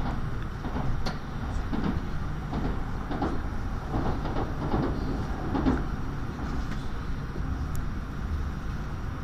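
Tokaido Shinkansen train running, heard from inside the passenger car as a steady low rumble with occasional irregular knocks and rattles.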